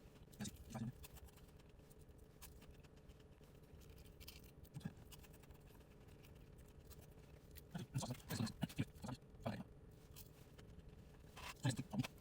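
A person eating: short, scattered chewing and lip-smacking sounds, with a cluster of them about eight to nine and a half seconds in, over a faint steady hum.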